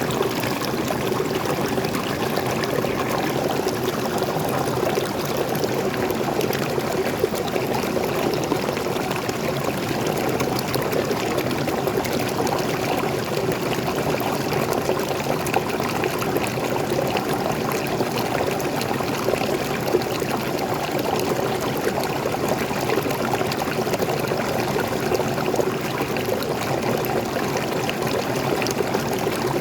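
Small forest waterfall: freshwater spilling and splashing over rocks in a steady, unbroken rush with close trickling.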